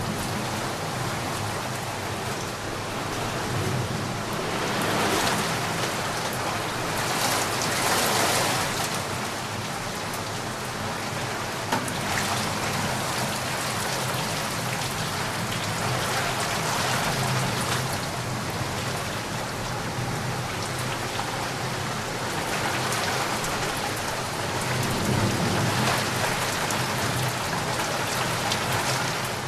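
Steady heavy rain falling and pattering on surfaces, a dense even hiss that swells and eases in waves every few seconds.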